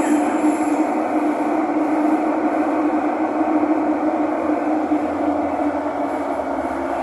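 Thomson-East Coast Line MRT train running between stations, heard from inside the car: a steady rumble of wheels and motors with a constant hum, easing slightly near the end.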